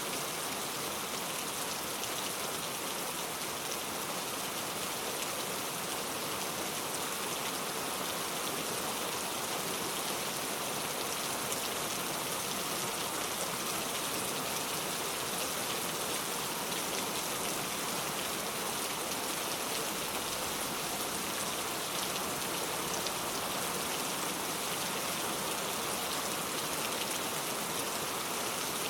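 Steady rain with the fine patter of individual raindrops, holding an even level.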